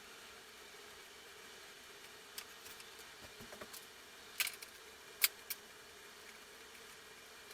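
A few sharp, isolated metallic clicks and clinks of hand tools and parts while ancillary parts are taken off a motorcycle engine, against quiet room tone.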